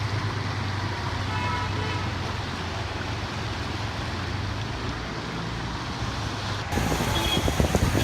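Road traffic noise with a steady low engine hum. Near the end the sound changes abruptly to louder, rougher noise.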